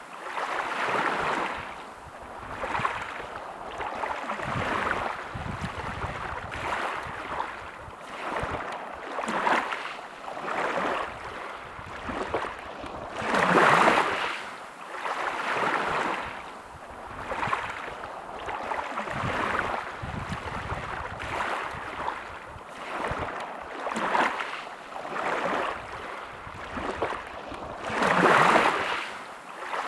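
Sea waves washing in on the shore: small waves lap every second or two, and two bigger waves break, about halfway through and near the end.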